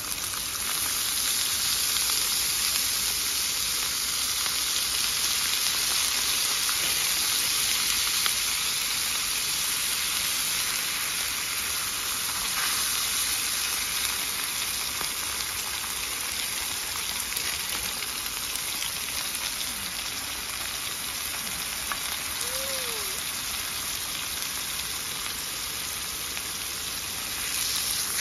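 Food frying in a pan: a steady sizzling hiss. A single faint short chirp-like tone sounds about two thirds of the way through.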